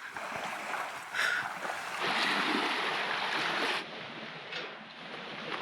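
Wind blowing across the microphone by a lakeshore, a steady rushing noise that rises in a gust for a couple of seconds and then drops off abruptly.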